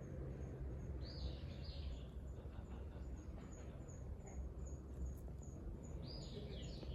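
Outdoor ambience over a steady low rumble: a bird gives a short falling call about a second in and again near the end. A faint, even string of high chirps, about three a second, runs under it like an insect.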